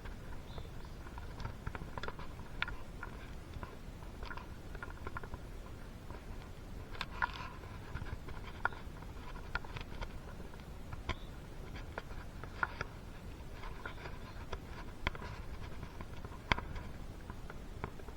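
Irregular light clicks, taps and small scrapes of hand work on a two-stroke engine during piston fitting, over a low steady background hum.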